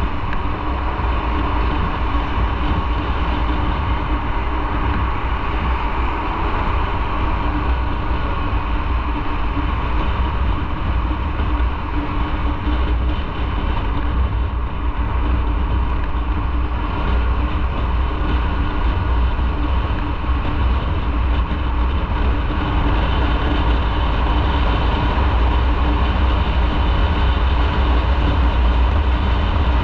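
A motorcycle riding along at a steady speed: the engine holds an even note under a heavy rumble of wind on the microphone, growing a little louder in the last third.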